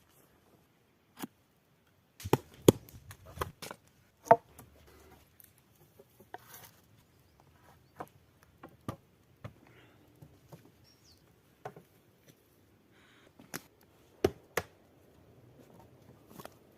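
Irregular sharp knocks and clicks of wood being struck and handled, the loudest coming in a cluster about two to four seconds in and again near the end.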